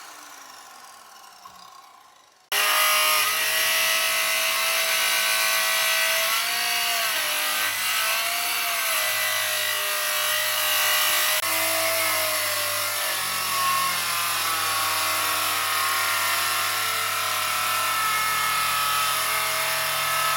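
A power tool working wood. For the first couple of seconds a machine sound fades with falling pitch. Then a loud, steady cutting noise with a wavering whine starts abruptly and carries on.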